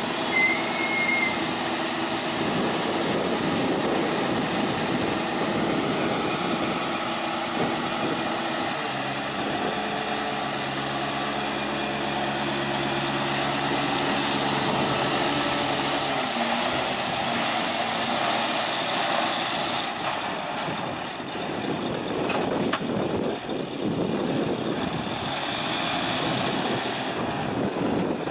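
A heavy vehicle's engine running, with mechanical noise; a steadier engine tone comes in about a third of the way through.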